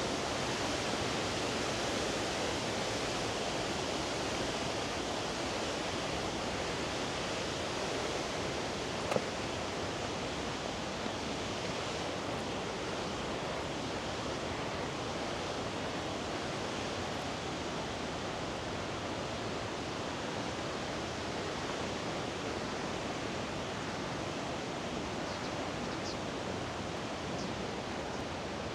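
River water rushing steadily over rocks, an even broad hiss. A single sharp click about nine seconds in.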